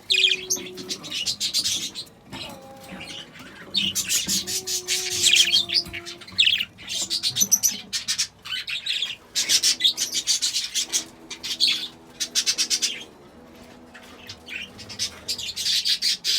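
Budgies chattering and squawking, a fast run of high chirps that comes in clusters with short breaks between. A few lower, held notes sound underneath.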